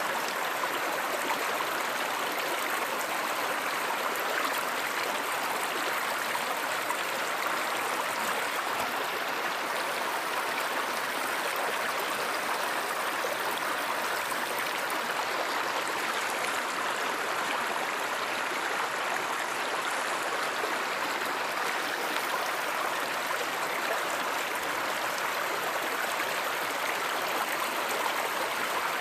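A river or stream running steadily: an even, unbroken rush of flowing water.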